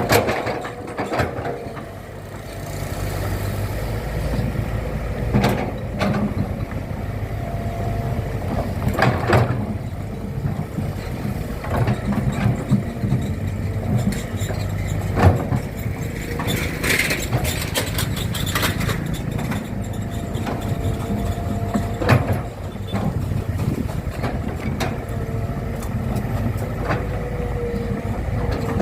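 Heavy machinery engine running steadily at a construction site, with a few sharp clanks and knocks scattered through it.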